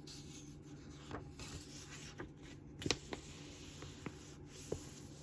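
Pages of a picture book being handled and turned: faint paper rustling with a few light taps, the sharpest about three seconds in.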